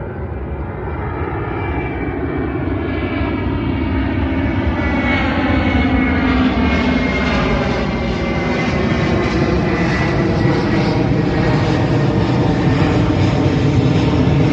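Jet airliner flying low overhead near the airport. Its engine noise grows steadily louder and brighter, with a whine that slowly falls in pitch as it passes.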